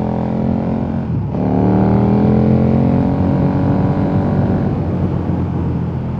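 KTM 1290 Super Duke R's V-twin engine running under way. There is a brief break in the engine note about a second in, then the revs climb and level off to a steady pull.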